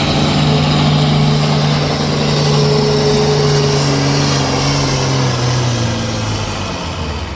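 International Harvester pulling tractor's engine running flat out under load as it drags the sled, with a thin high whine over it. About five seconds in, its pitch sags and it winds down as the run ends.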